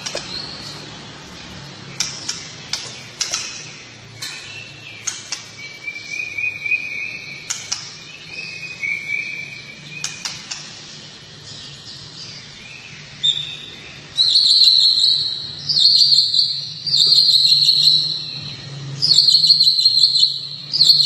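Songbird song: sharp chirps and a warbling phrase, then, from about two-thirds of the way in, loud buzzy trills in bursts of about a second, repeated several times.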